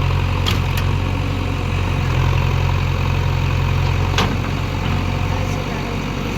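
Heavy diesel engine of earth-moving machinery running steadily with a deep hum. A few short sharp knocks come near the start and about four seconds in.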